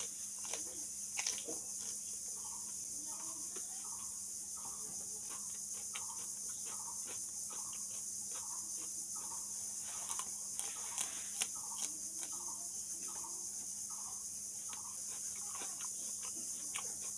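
Crunchy chewing of raw green chillies close to the microphone, as short crisp clicks, over a steady chirring of crickets.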